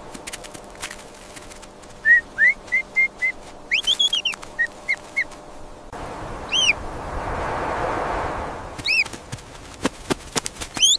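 Short, high, bird-like chirps and squeaky arching calls, mixed with scattered sharp clicks and a whooshing hiss that swells in the middle.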